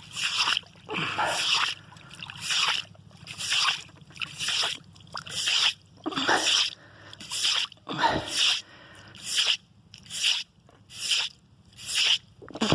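Water in a bird bath splashing in short repeated bursts, about one to two a second.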